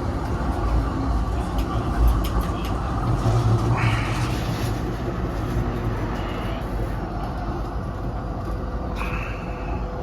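Z3-class tram running on street track, a steady low rumble with wheel-and-rail clatter, swelling about two to four seconds in. Two short high-pitched sounds cut through, one rising about four seconds in and one held briefly near the end.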